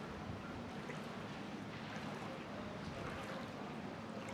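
Motorboat engine running steadily, a low hum with a faint wash of water.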